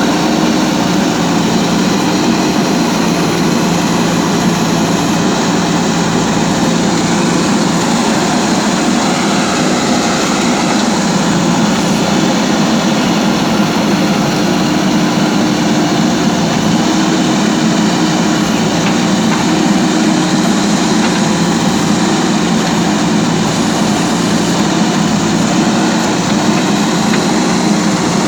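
Diesel engine of a JCB 3DX backhoe loader running steadily, its pitch and loudness hardly changing.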